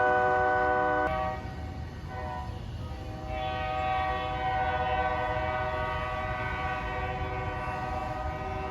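Freight locomotive air horn sounding a chord of steady tones over a low rumble. The horn cuts off abruptly about a second in; a second long horn blast builds from about three seconds in and holds.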